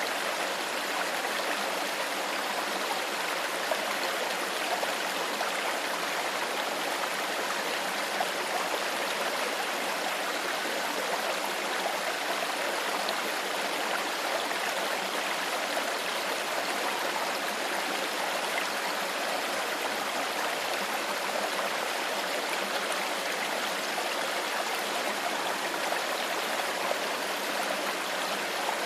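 A stream flowing steadily over stones, an even rushing babble with small gurgles.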